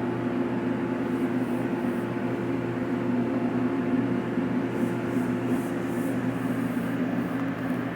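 Steady mechanical hum, a constant low drone with an even rushing noise over it.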